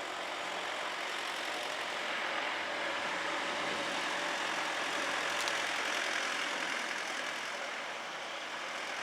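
A street-washing truck passes, its engine running steadily with a hiss of water spray. The sound grows louder toward the middle and eases off near the end.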